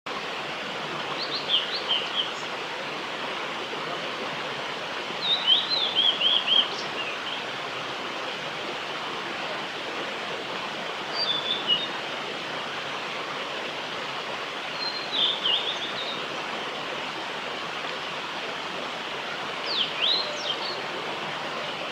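Male blue-and-white flycatcher singing: five short phrases of quick, clear high whistled notes, one every four to five seconds, over a steady rushing background noise.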